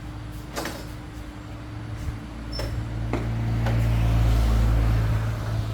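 A low, steady mechanical hum that swells to its loudest a little past the middle and then eases, with a few sharp clicks or knocks in the first half.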